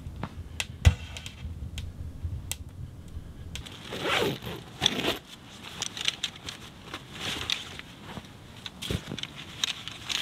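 Kindling crackling in a small wood stove, with scattered sharp pops and one loud knock about a second in. Then nylon fabric rustling and scraping as a folding camp chair is pulled from its bag and opened out.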